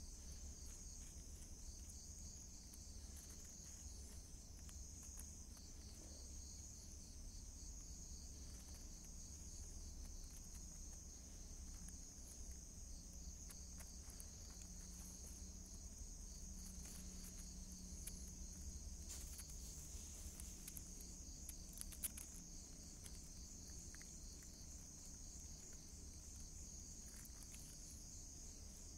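Crickets chirping in a faint, steady, high trill, with one sharp click about two thirds of the way through.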